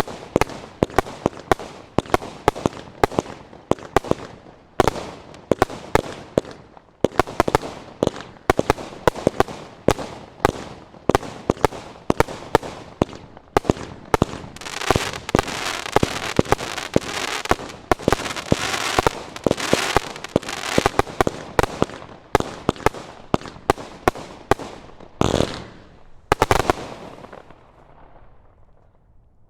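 Fireworks firing a rapid barrage of sharp bangs, thickening into dense crackling in the middle, then two last bursts and a fade-out near the end.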